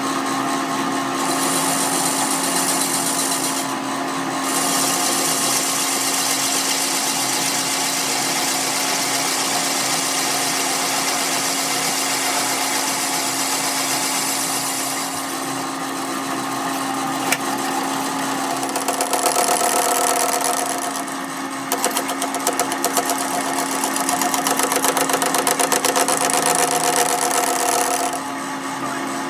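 A machine's motor running continuously with a steady hum and a loud rushing noise over it. The noise changes in character a few times, with a fast rattling texture in the later part.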